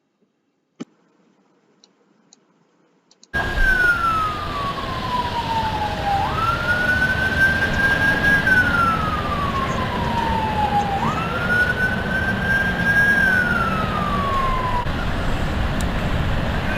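Near silence with a few faint clicks, then about three seconds in a loud, steady rush of noise cuts in, with a siren wailing over it. Its pitch falls slowly, jumps back up and holds, three slow falls in all, stopping near the end while the rush of noise carries on.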